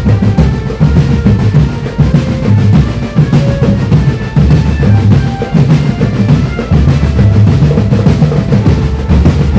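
Marching drum band playing a fast, dense dance rhythm on snare and bass drums, with a faint melody line above the drumming.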